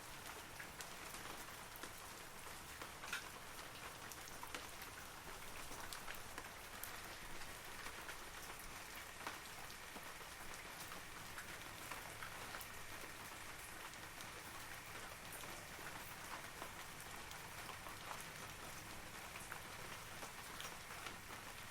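Steady rain falling on forest foliage, with individual drops ticking out of an even hiss.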